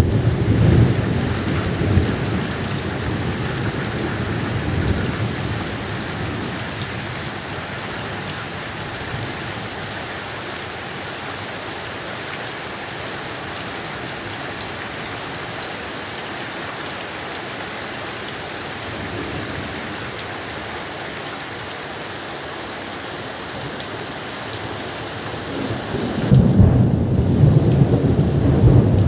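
Steady rain with thunder rumbling: a low rumble dies away over the first couple of seconds, and another heavy rumble rolls in near the end.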